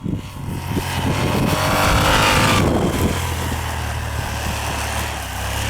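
Yamaha TDM 850's parallel-twin engine revving up under throttle, loudest about two seconds in with a rush of noise, then running at a steady pitch.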